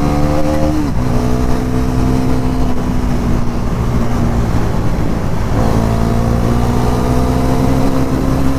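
Bajaj Pulsar NS400Z's 373 cc single-cylinder engine pulling hard under full acceleration. Its pitch climbs slowly, with a drop at a gear change about a second in and another near the end.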